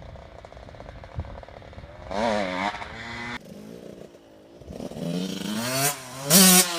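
Dirt bike engine revving: a faint low running for about two seconds, a short rev burst with wavering pitch, then the engine climbs in pitch and grows louder, loudest near the end.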